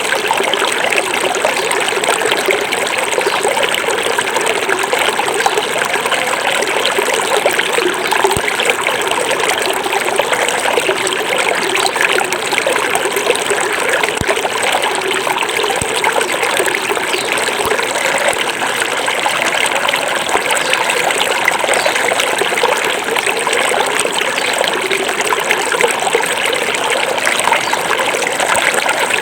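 Small forest river flowing: a steady, unbroken babble and trickle of running water.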